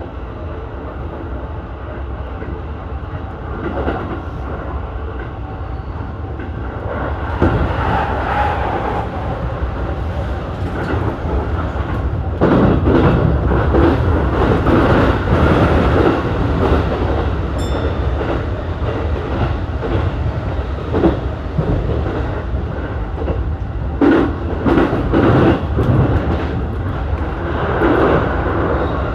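Keihin-Tohoku Line electric commuter train running on the rails: a steady rumble of wheels and track noise that grows louder about twelve seconds in, with scattered short knocks of rail joints.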